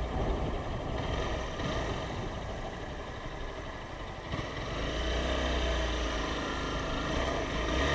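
Motorcycle engine running, with road and traffic noise; about four and a half seconds in, a steadier, louder low engine note sets in and holds.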